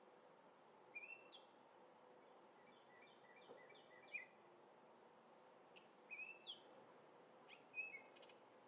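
Orioles singing: short whistled notes and slurred chirps in scattered phrases, with a quick run of short notes a few seconds in, faint over a steady background hiss.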